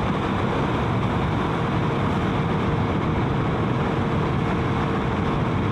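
Motorcycle running at a steady speed, its engine note and road noise unchanging.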